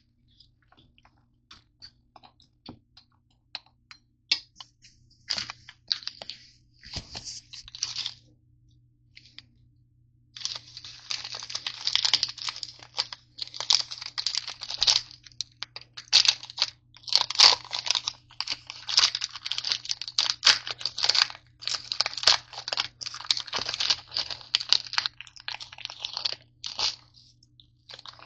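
Nature Valley crunchy granola bars being broken up and crushed: scattered dry crackles at first, then a dense, irregular run of crunches from about ten seconds in, over a steady low hum.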